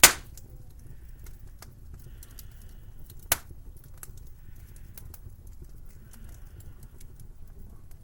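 Wood fire crackling in a fireplace: many small irregular snaps over a low steady rumble, with a loud pop right at the start and another about three seconds in.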